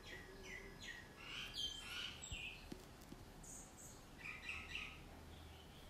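Faint birdsong: small birds chirping, with quick falling notes about a second in and scattered higher chirps later.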